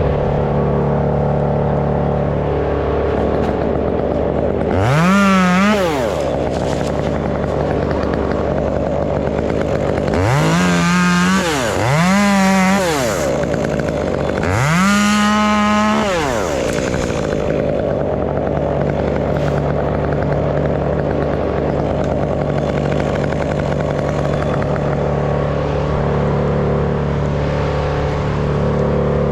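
Stihl MS 201 two-stroke top-handle chainsaw idling, revved up to full throttle four times and dropping back after each; the last rev is the longest.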